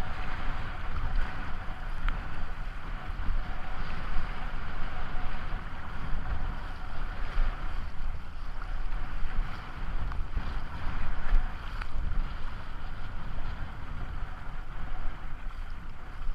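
River water rushing around a kayak, with wind buffeting the microphone as a steady low rumble.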